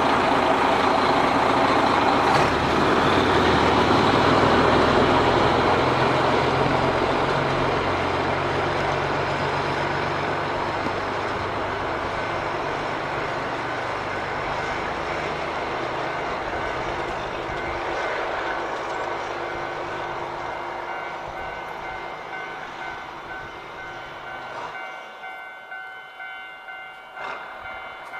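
DD15 diesel locomotive's engine running under power as the locomotive moves, its sound fading steadily as it draws away.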